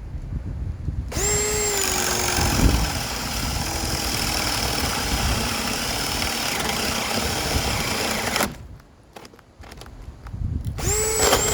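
Bauer 20-volt cordless drill/driver on its high-speed setting boring a hole through wood. It runs for about seven seconds with a steady motor whine that sags a little as the bit bites, then stops. A short second burst of the drill comes near the end.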